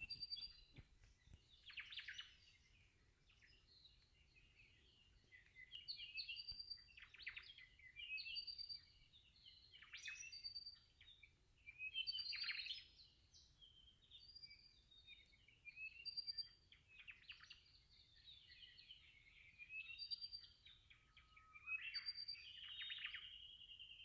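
Faint birdsong: several birds chirping and singing, with short high repeated notes and quick trills coming every second or two.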